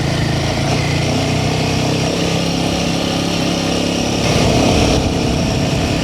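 Royal Enfield Himalayan 450's single-cylinder engine running steadily as the motorcycle is ridden over a bumpy track, briefly louder a little after four seconds in.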